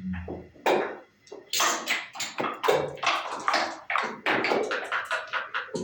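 Backgammon play: checkers clacked onto the board and dice tossed from their cups, a rapid run of sharp clicks and knocks, several a second, with a dull thump at the start.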